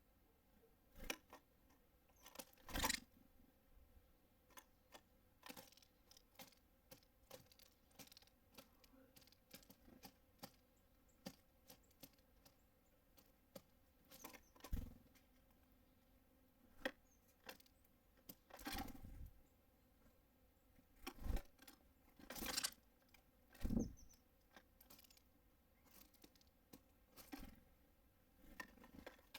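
Birds at a feeder: irregular taps, clicks and scrapes of beaks and feet on the feeder and seed, with a few louder knocks.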